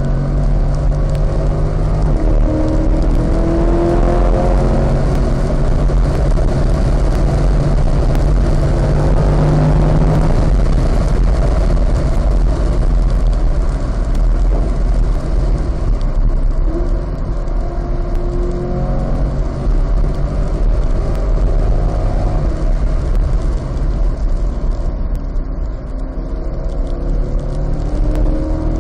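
Car engine heard from inside the cabin at track speed. It climbs in pitch under acceleration through several upshifts, then eases off and downshifts for corners. Under it runs a steady hiss of tyre and road noise on the wet surface.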